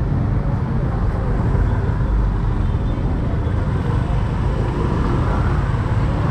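Steady rumble of a motorcycle riding along a road, with engine and road noise.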